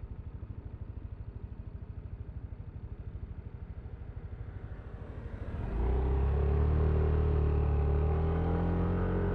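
Yamaha Aerox V3 scooter's 155 cc single-cylinder engine idling with an even putter, then, about six seconds in, the throttle opens and the engine gets suddenly louder and holds a higher, steady note.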